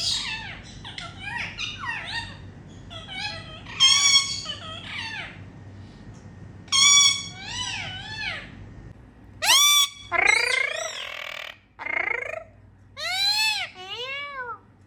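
Indian ringneck parrot chattering and calling: a run of high, arching squawk-like calls that rise and fall in pitch, several of them loud.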